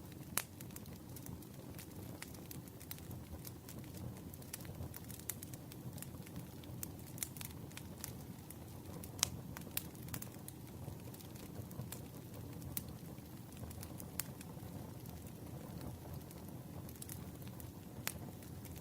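Campfire burning: a steady low rush of flame with irregular sharp crackles and pops. A few louder pops stand out, about half a second in, around nine seconds in and near the end.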